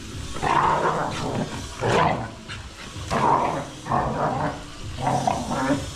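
A dog barking in short loud outbursts, about once a second.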